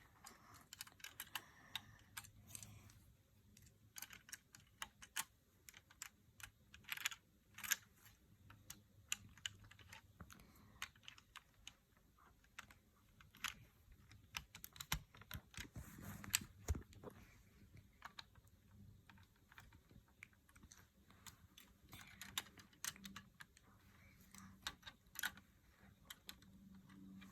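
Faint, irregular sharp clicks and small rattles of plastic LEGO bricks being handled and pressed together.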